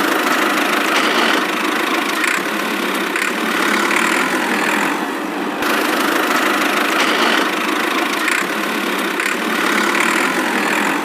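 Engine running steadily with a gentle rise and fall, broken off for a moment about five and a half seconds in.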